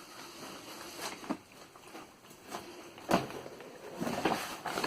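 Scattered knocks and rustling of objects being handled, with one sharp knock about three seconds in and a rustling, scraping stretch near the end.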